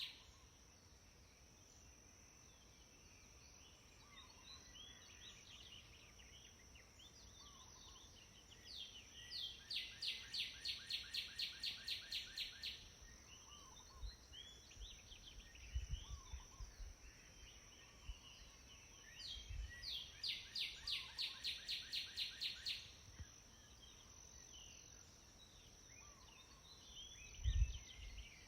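Outdoor birdsong: a bird twice sings a loud, rapid series of repeated notes, about four a second for some three seconds each time, with scattered short chirps from other birds between. A steady high-pitched tone runs underneath, and a low thump comes near the end.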